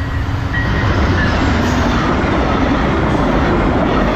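A train passing close by: a loud, steady rumble that builds about half a second in and holds.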